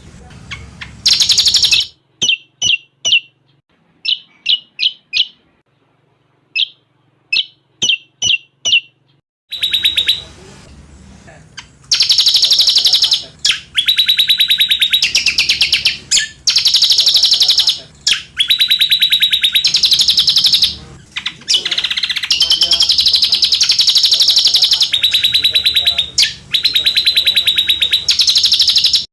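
Recorded cucak combok song with cililin-style phrases. First come groups of short, sharp chip notes, then after a brief pause long runs of very fast, shrill chattering trills.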